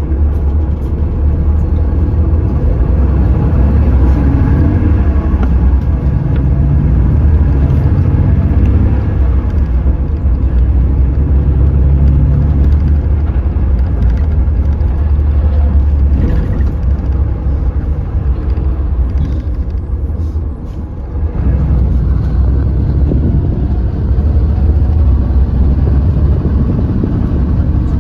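Hyundai New Super Aero City CNG city bus engine running under load, a deep steady drone whose pitch rises and falls. About three-quarters of the way through it briefly drops away, then picks up again.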